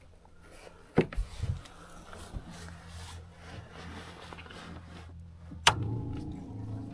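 Knocks and thumps on a small fishing boat, with a steady low hum underneath. Near the end a sharp click is followed by steady running water.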